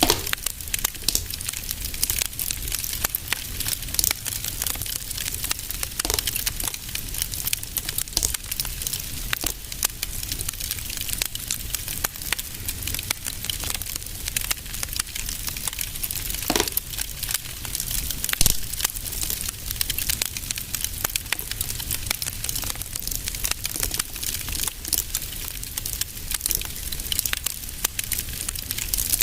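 Wood fire burning in a fireplace: a constant fine crackling over a low steady rumble, with a few louder pops, the loudest about two-thirds of the way through.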